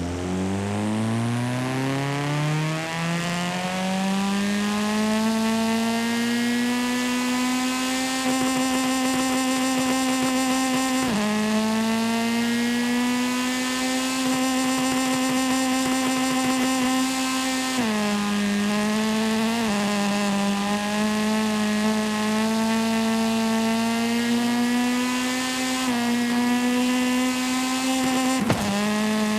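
Car engine sound in a driving video game, rising in pitch as the car accelerates, then holding a steady high note. Three times it breaks off briefly with a drop in pitch that climbs back.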